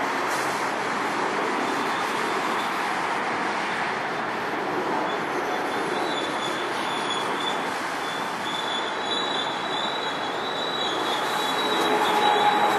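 NJ Transit commuter train, led by a Comet V cab car, rolling into the station with steady wheel-on-rail noise. A thin high squeal joins about halfway through and grows louder near the end as the cars pass close by.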